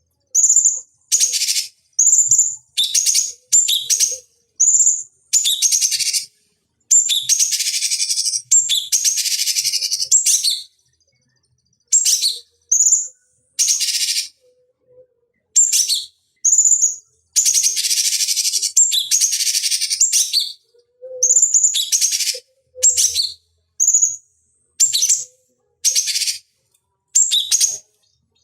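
Cucak cungkok, a bulbul, calling over and over in short, high, clear phrases about a second apart. Two longer runs of rapid, chattering song, each a few seconds long, come about a third of the way in and again about two thirds in. The song is recorded clean, with dead silence between the phrases.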